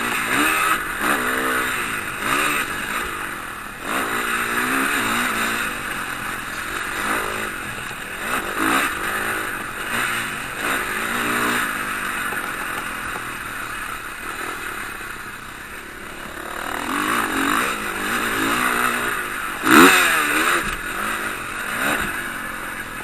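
Motocross bikes racing, their engines revving up and down as they accelerate and shift, several overlapping. One bike passes loudest about 20 seconds in.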